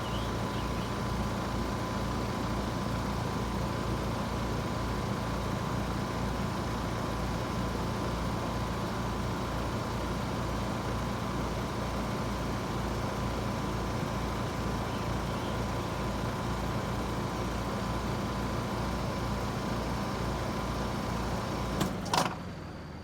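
Trane XR14 heat pump outdoor unit running in cooling mode: a steady hum from the compressor and condenser fan, with a low pulsing tone. About a second before the end comes a sharp double clack as the unit shuts down, and the running noise starts to fall away.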